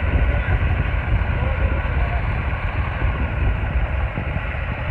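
Diesel tractor engine running steadily with a low, even rumble.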